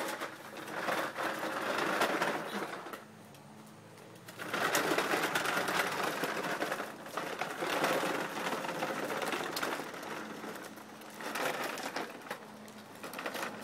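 Plastic wheels of a toy truck rolling and rattling over pavement in uneven stretches, one short and one long, with a weaker stretch near the end.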